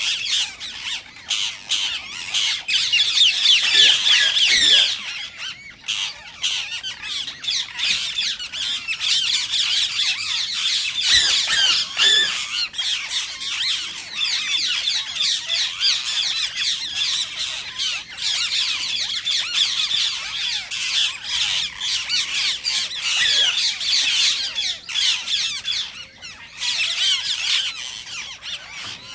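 Indian ringneck parakeets calling, a dense run of rapid, high-pitched squawks and chatter with short lulls about six seconds in and near the end.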